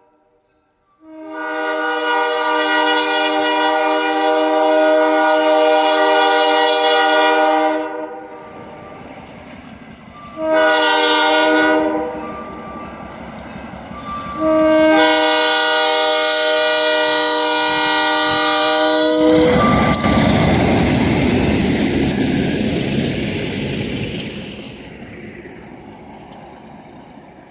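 Buffalo Southern RS18U diesel locomotive sounding its air horn: a long blast, a short one, then another long one, the pattern of a grade-crossing signal. Right after the last blast the locomotive passes close by with a loud rumble that fades away as it goes.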